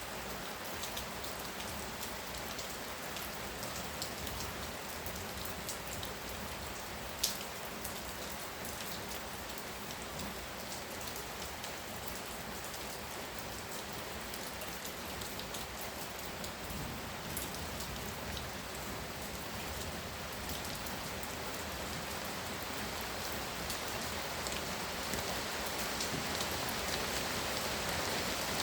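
Heavy rain pouring down: a steady hiss dotted with the ticks of individual drops hitting a surface, one sharper tick about a quarter of the way through, and the rain getting louder in the last few seconds.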